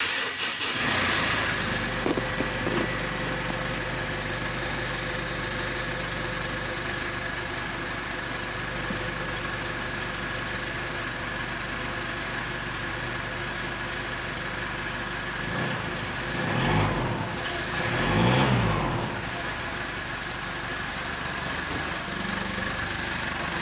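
Mitsubishi Triton engine running at idle with a steady high-pitched whine over it, revved briefly twice about two-thirds of the way through.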